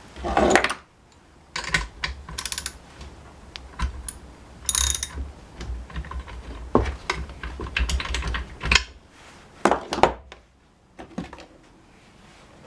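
Tools and small parts of a Honda UMK-422 brush cutter being handled during reassembly: a run of irregular clicks, rattles and short scrapes, with a few louder knocks about half a second in and near 7, 9 and 10 seconds.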